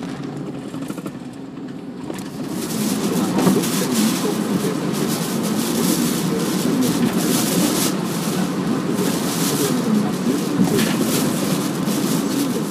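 Steady rush of tyre, wind and rain noise inside a car driving through a typhoon, getting louder about two seconds in, with a flickering hiss as gusts and rain hit the car.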